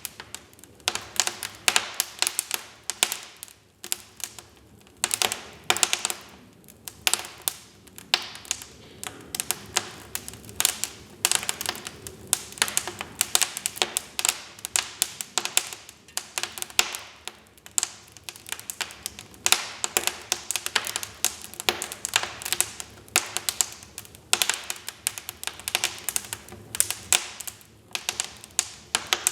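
Wood fire in a fireplace crackling, with dense, irregular sharp pops and snaps in clusters over a faint low burning rush.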